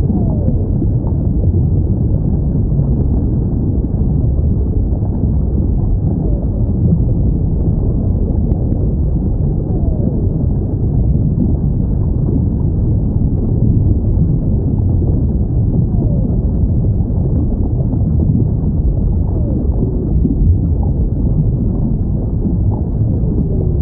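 Steady low underwater rumble with a few faint whale calls gliding downward in pitch, spaced several seconds apart.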